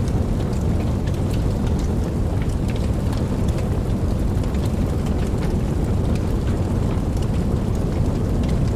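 Steady rain falling, with scattered individual drops ticking over a deep, continuous low rumble.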